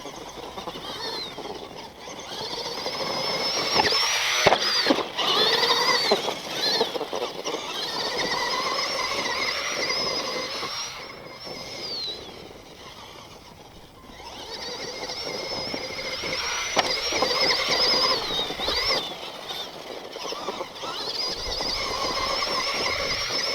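Axial SMT10 Grave Digger RC monster truck's brushed electric motor and all-metal gear transmission whining, the pitch rising and falling with the throttle, easing off for a couple of seconds midway. A few sharp knocks and clatters come about four to six seconds in and again near seventeen seconds.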